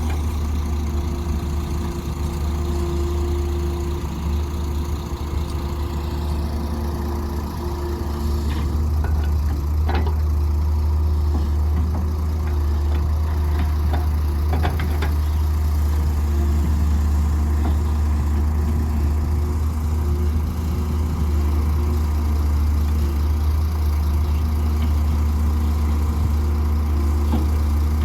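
Heavy diesel engine running steadily at low revs, with a few short knocks about ten and fifteen seconds in.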